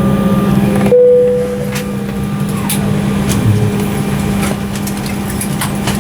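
Steady hum inside an Embraer 190 cabin at its stand, from the aircraft's air systems. About a second in the sound changes abruptly, a falling whine follows, and scattered clicks and knocks come after.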